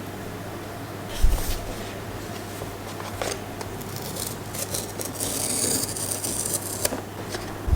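Hands handling a blind-box toy package: a thump about a second in, a few sharp clicks, and rubbing or scraping of the packaging near the middle, over a low steady hum.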